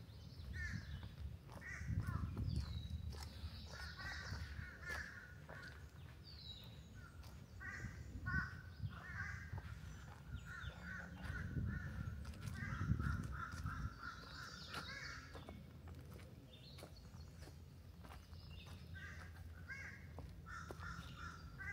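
Birds calling in runs of short repeated notes, busiest in the middle, over footsteps on the forest floor.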